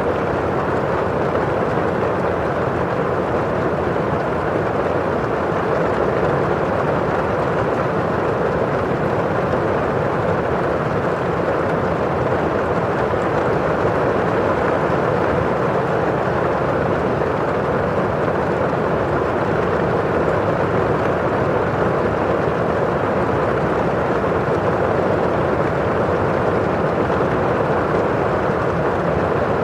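Steady rain on a window pane with the rush of rain outside: an even, constant hiss with no distinct drops standing out.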